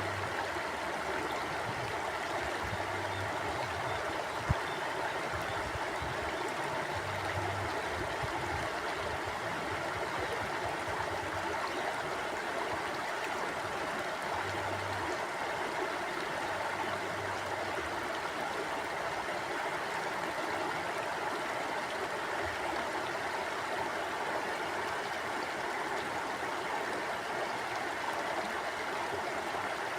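Mountain stream flowing steadily over rocks, an even rush of water with a single brief click about four and a half seconds in.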